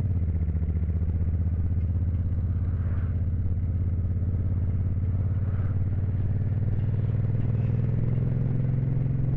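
Motorcycle engine running steadily at highway cruising speed, about 115–120 km/h: a low, even drone with a fast pulsing beat.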